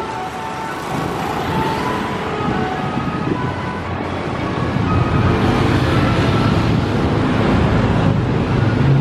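Road vehicle noise: a low rumble that grows louder about halfway through, with short high tones over it early on.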